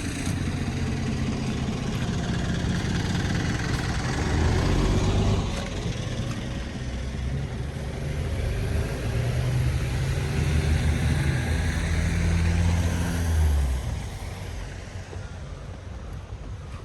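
A large motor vehicle's engine running close by with a steady low hum, swelling around 4 to 5 seconds in and again from about 9 to 13 seconds, then fading away about 14 seconds in as it moves off.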